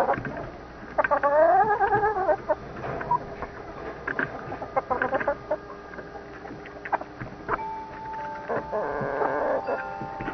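Chickens clucking and calling, with one longer rising call about a second in and scattered sharp clicks.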